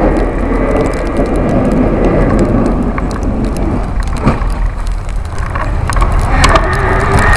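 Busetti Vortex electric bike ridden fast through snow: a heavy, steady wind rumble on the bike-mounted camera's microphone, with a few knocks, and a whine from the electric motor coming in near the end.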